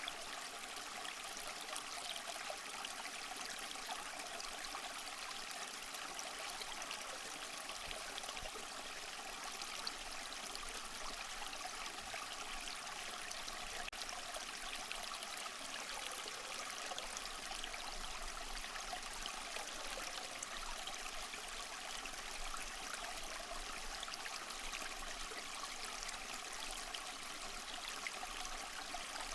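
Small waterfall splashing and trickling steadily over mossy rocks, a continuous even rush of water.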